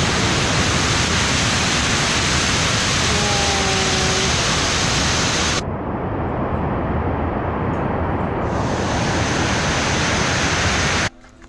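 Waterfall water rushing in a steady loud roar. About halfway through the hiss loses its high end, which comes back a few seconds later, and the sound cuts off abruptly near the end; a short whistle-like tone is heard about three seconds in.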